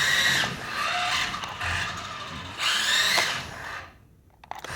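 Tyco Twin Turbo Porsche 962 RC car's twin electric motors whining, speeding up and slowing down in two surges, then cutting off about four seconds in.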